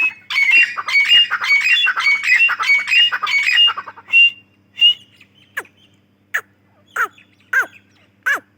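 Teetar (francolin) calling: a rapid run of repeated high, ringing notes for about four seconds, then single falling notes spaced roughly two every second and a half.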